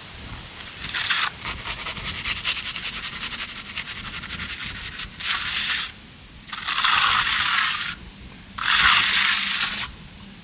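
A trowel scraping over the surface of a partly set concrete pad while it is being finished: a few seconds of rapid gritty scraping strokes, then three separate longer sweeps of about a second each.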